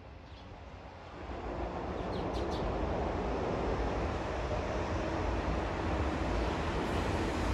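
Train rumble building up, swelling about a second in and then holding steady and loud, with a few brief high squeals near the start of the loud part.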